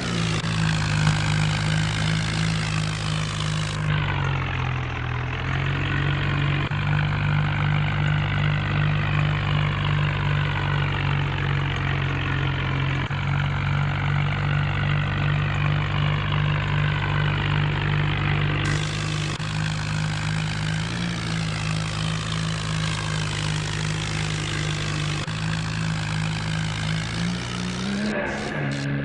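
New Holland tractor's diesel engine running steadily while pulling a loaded trolley. The engine note dips briefly about four seconds in and rises again near the end.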